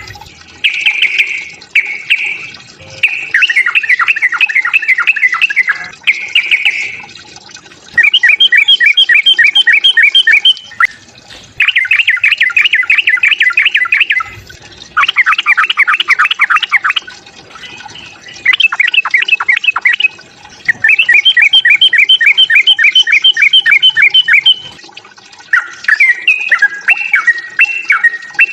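Yellow-vented bulbul (trucukan) singing its aggressive fighting song: loud, rapid bubbling phrases of one to three seconds each, repeated with short pauses.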